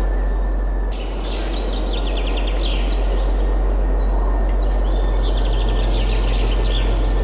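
Steady wind noise with a deep low rumble, with small songbirds singing quick trills and chirps over it, starting about a second in and again in the second half.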